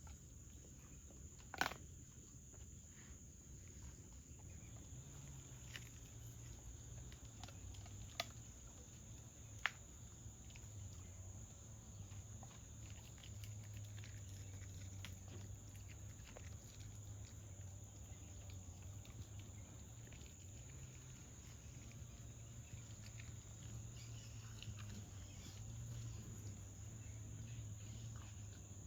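Faint, steady high-pitched chirring of insects such as crickets over a low hum, with three sharp clicks about 1.5, 8 and 9.5 seconds in.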